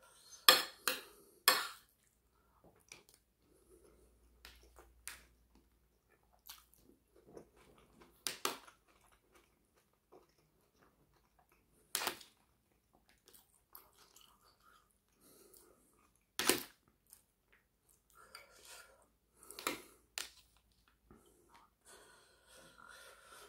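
Close-miked eating: a person chewing a mouthful of chicken curry with rice, with soft mouth noises, broken by several sharp clinks of a metal spoon against the plate.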